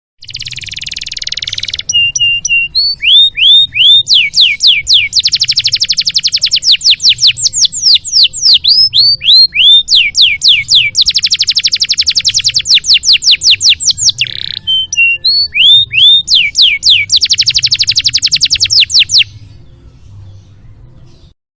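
Domestic canary singing a long, varied song phrase: rapid buzzing trills alternating with runs of quick falling whistles, used as a tutor (masteran) recording for training canaries. A faint low hum lies underneath, and the song stops about two seconds before the end.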